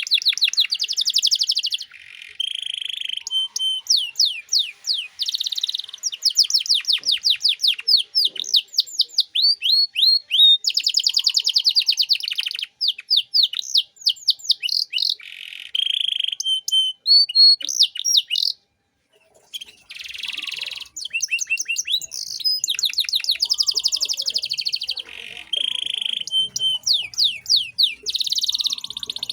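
Domestic canary singing continuously in long, fast, high-pitched trills and rolls of rapidly repeated sweeping notes, changing from one phrase to the next. The song breaks off briefly about two-thirds of the way through.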